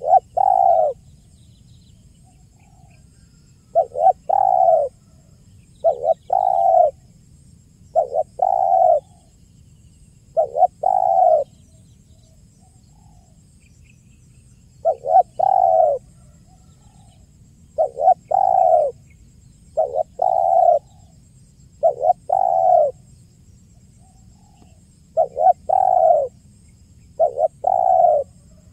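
Spotted dove (tekukur) cooing, repeating its call over and over: each phrase is a short note followed by a longer one, coming about every two seconds, with one longer pause about halfway through.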